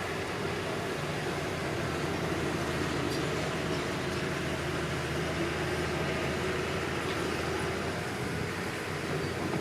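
Komatsu D31P bulldozer's diesel engine running steadily.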